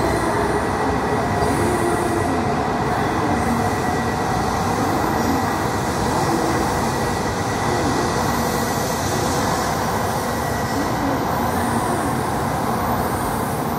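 E2 series Shinkansen train running past a platform in an underground station, a steady rolling rumble of wheels and running gear echoing off the walls, with a thin high whine in the first half.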